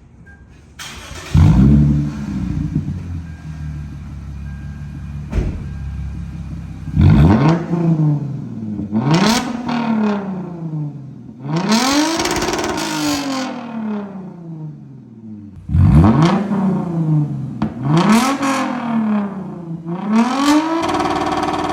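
Lexus IS 350's 3.5-litre V6, with its muffler deleted, starting about a second in, settling to idle, then revved in six quick blips, one held longer near the middle, each rising and falling in pitch.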